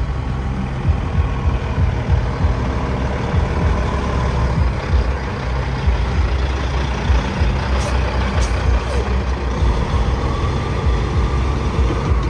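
Semi truck's diesel engine running as the truck maneuvers with its trailer.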